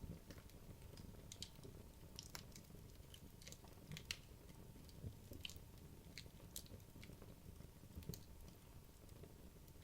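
Wood logs burning in a fireplace: irregular small pops and snaps of crackling fire over a soft low rumble of the flames.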